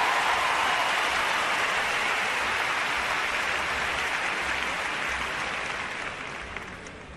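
Arena audience applauding, the applause dying away over the last couple of seconds.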